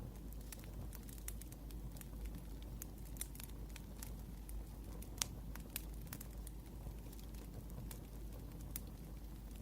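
Wood fire crackling: irregular sharp pops and snaps from burning firewood over a steady low rumble, with one louder pop about five seconds in.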